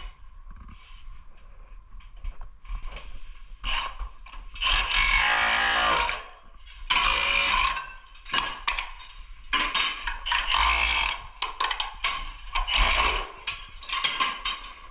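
Intermittent mechanical rasping and clicking from tools at work, coming in irregular bursts of about a second with short pauses between.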